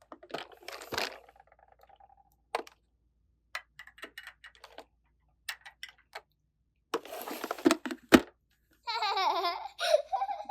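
Small plastic clicks and taps of toy kitchen pieces being handled, with a short burst of rustling and a sharp knock about two-thirds of the way in. Near the end, a giggling voice comes in.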